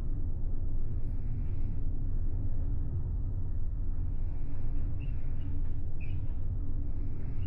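Steady low rumble of a large car ferry under way, its engines and hull heard from inside a passenger cabin. A few faint high chirps come about five and six seconds in.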